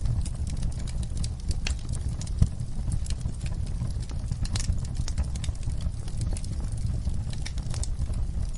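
Wood fire crackling: irregular sharp pops and snaps over a low steady rumble of the burning fire, with one louder pop about two and a half seconds in.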